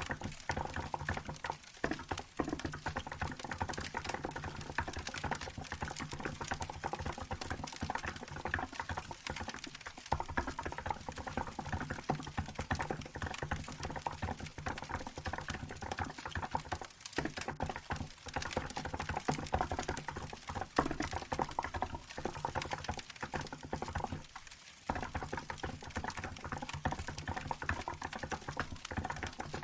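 Steady, fast typing on a Hansung GK868B electro-capacitive keyboard with 'milk' keycaps: continuous keystrokes with a brief pause near the end, over a crackling wood-fire background.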